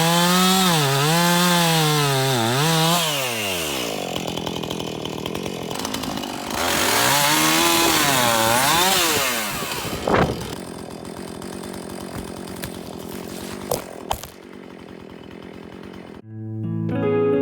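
Husqvarna Rancher two-stroke chainsaw running at high revs, its pitch wavering under load, then dropping to idle about three seconds in. It revs up again for about three seconds in the middle, then falls back to idle and goes quiet, and guitar music starts near the end.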